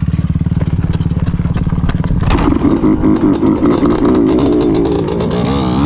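Dirt bike engine running at a steady low speed, then about two seconds in the revs rise and waver up and down as the throttle is worked. A few light clicks sound over the engine early on.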